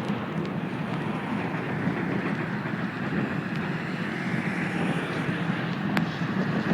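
Slow-moving TasRail freight train passing, a steady rumble of rolling stock with one sharp click about six seconds in.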